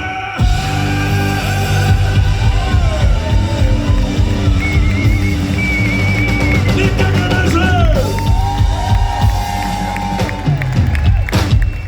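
Live rock band playing loudly: drum kit and bass under a lead line of held, bending notes. The band stops short near the end.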